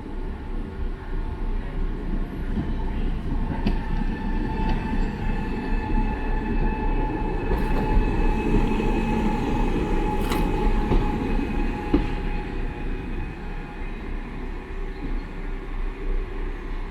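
Class 139 Parry People Mover railcar pulling into the platform over a steady low rumble. A high whine of several steady tones comes in about three seconds in and fades out near the end, with a few sharp clicks along the way.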